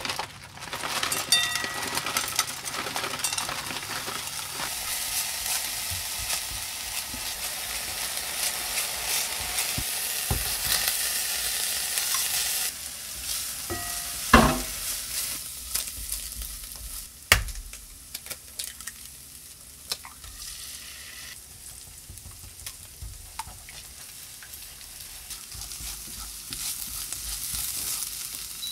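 Diced Spam and green onion sizzling in hot oil in a frying pan while being stirred with a spatula, later with scrambled egg. The sizzle starts suddenly, is loudest for the first dozen seconds and then quieter, with a few sharp knocks around the middle.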